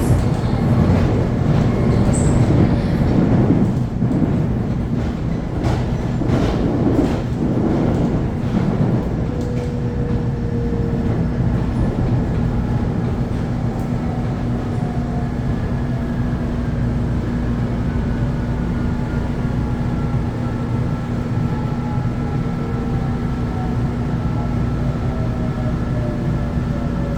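Electric commuter train running along the track: a steady low hum, with wheels clicking over rail joints for the first several seconds. Faint whines slowly fall in pitch later on.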